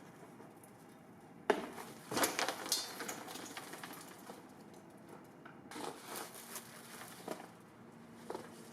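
Clatter and rustling of things being handled. A sharp knock about a second and a half in starts a spell of clicks and scraping, and a second, quieter spell follows near the end.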